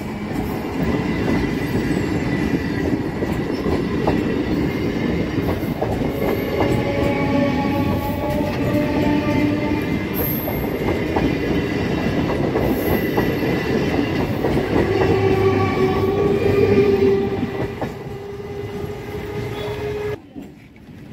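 Suburban EMU local train running past close by: a steady rumble of wheels on rail with clicks over the rail joints and several steady ringing tones, easing off as the last coach goes by and dropping away abruptly near the end.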